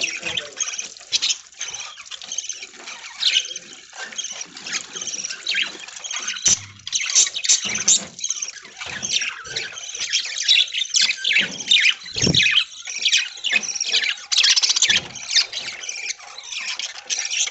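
A flock of budgerigars chattering, many short high chirps overlapping without a break. There is one brief low thump past the middle.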